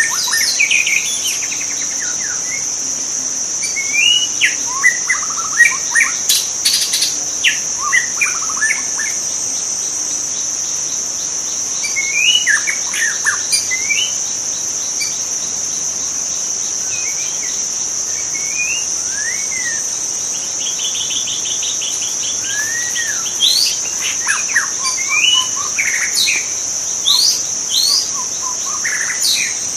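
White-rumped shama singing in bursts of varied, rich whistled phrases with quick up-and-down notes, several pauses between bursts. A steady high-pitched insect drone runs underneath.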